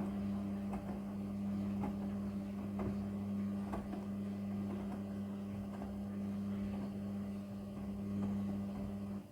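Front-loading Midea washing machine running with a steady hum and faint scattered knocks, which stops abruptly near the end.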